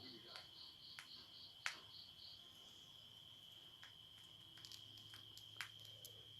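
Crickets chirping faintly: a steady high trill with a pulsed chirp about four times a second that stops a little over two seconds in. A few soft clicks, the loudest about a second and a half in.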